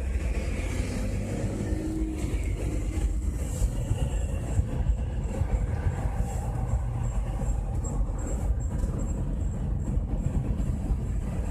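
A 2005 four-wheel-drive SUV driving, its steady low road rumble overlaid by a repeated high-pitched squeak from the front of the vehicle. The owner cannot place the cause and suspects the driveshaft universal joint, the front propshaft, a front wheel bearing, a tripod CV joint or a strut top mount.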